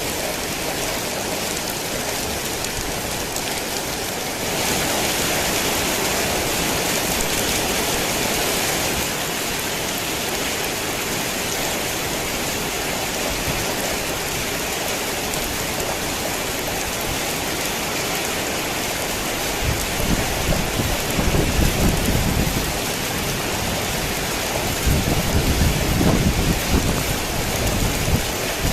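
Heavy rain hissing steadily, growing heavier about four seconds in and easing back a few seconds later. Low rolls of thunder rumble twice in the second half.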